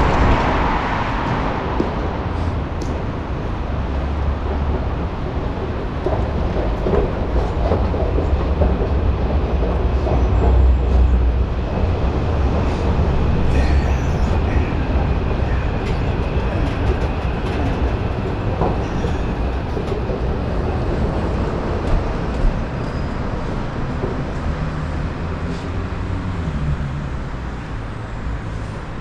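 Passenger train running on the rails: a steady low rumble with rail noise.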